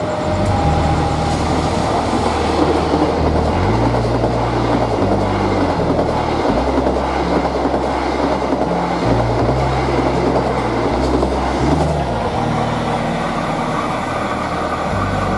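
Senja Utama Yogya passenger train rolling past at close range: a steady, loud rush of wheels on rails as the carriages go by.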